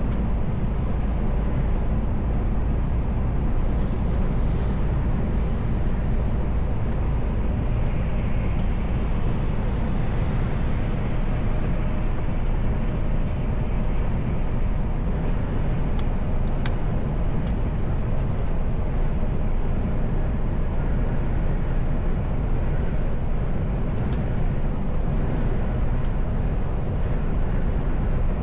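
Mercedes-Benz Actros L truck driving on the road: a steady, continuous low rumble of engine and road noise. Two faint clicks come about halfway through.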